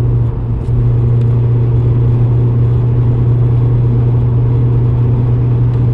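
Steady, loud, low humming drone inside the cabin of a 2007 VW Golf GT TDI with its 2.0-litre BKD diesel engine under way. The hum follows engine speed rather than road speed, and the owner suspects the dual-mass flywheel.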